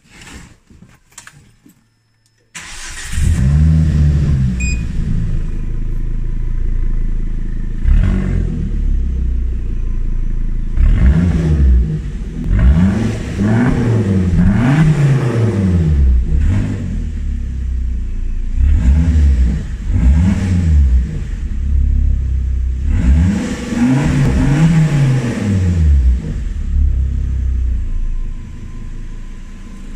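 Volvo S60 2.0T turbocharged five-cylinder engine, breathing through an exhaust fitted with an electric cutout valve. After a few faint clicks it starts about two seconds in and idles, then is blipped and revved several times, each rev rising and falling back to idle.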